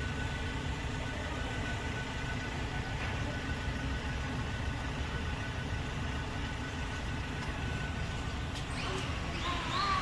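Steady low rumble of an engine running, with a faint steady whine over it. Near the end a warbling pitched call starts.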